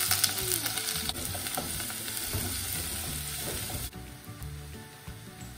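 Chopped onions and curry leaves sizzling as they fry in hot oil in a saucepan. The sizzle drops abruptly to a softer hiss nearly four seconds in.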